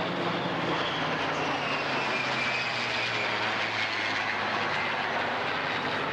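Jet aircraft engines passing at an airshow: a steady, loud rush of jet noise with a whine that slowly falls in pitch as the aircraft goes by.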